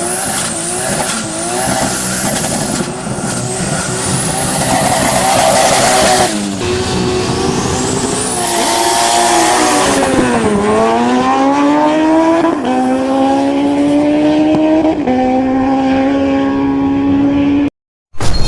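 Drag race car engine revving hard through its gears down the quarter mile, with a high whistle over it in the first seconds. About ten seconds in the engine note drops and climbs again, then holds high with two small steps up before the sound cuts off near the end.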